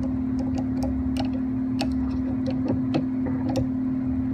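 Steady electrical hum with scattered light metallic ticks and taps, as of small hand tools working the gib screws on a Harbor Freight 7x10 mini lathe's carriage.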